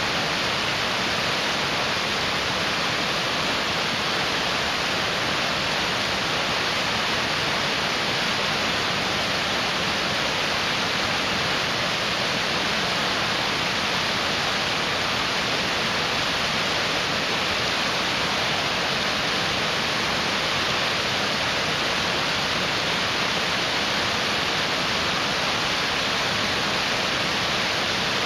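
Mountain stream rushing: a steady, unbroken hiss of fast-flowing water.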